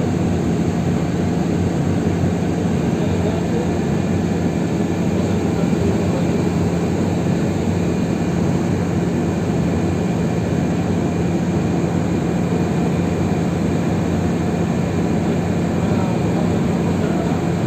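Bus running steadily: a constant drone with a low, even hum throughout.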